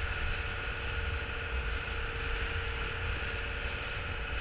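Speedboat engine running steadily with a constant whine, over a low, uneven rumble of wind on the microphone.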